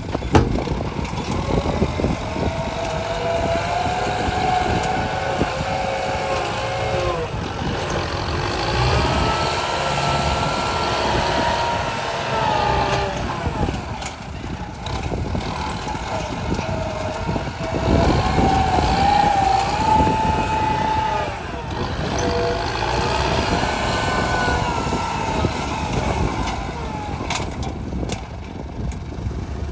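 Truck engine revving under load in about four long surges, its pitch rising, holding and dropping back each time.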